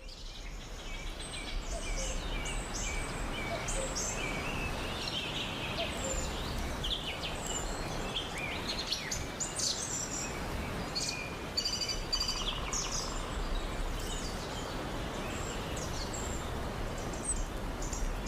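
Forest ambience: many birds chirping and whistling over a steady background hiss.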